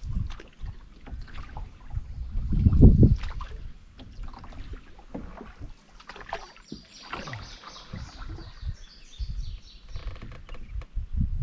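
A canoe being paddled: irregular paddle strokes and water against the hull, with scattered sharp knocks and a louder low surge about three seconds in.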